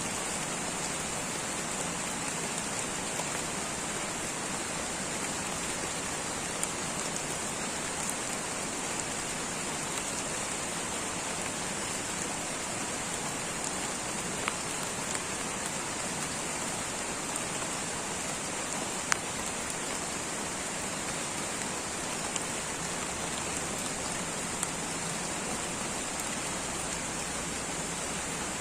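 Light rain falling steadily in a tropical rainforest, an even hiss with a few sharper single drops ticking through it, the loudest about two-thirds of the way through.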